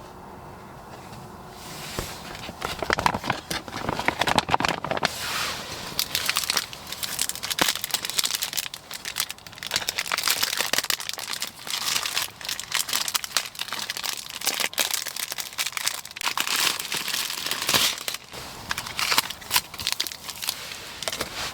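Plastic packaging of an MRE field ration crinkling and rustling as its packets are handled and pulled out. It starts about two seconds in and runs on as a dense, irregular crackle.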